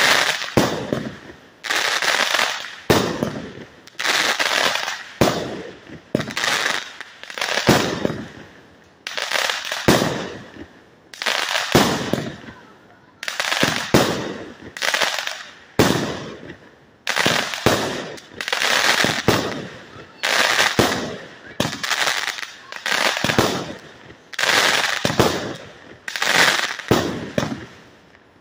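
A 100-shot firework cake (multi-shot repeater) firing shot after shot, about one a second. Each shot is a sharp report that fades away before the next.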